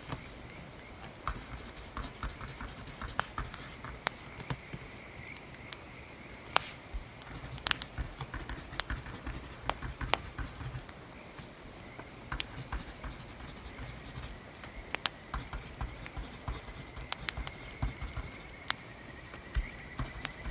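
Wood fire crackling with sharp, irregular pops, along with the scratch of writing on paper.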